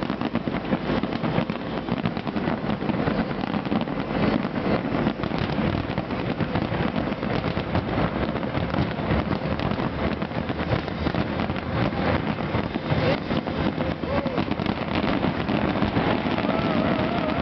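Fireworks bursting and crackling in rapid, continuous succession, with a wavering pitched sound near the end.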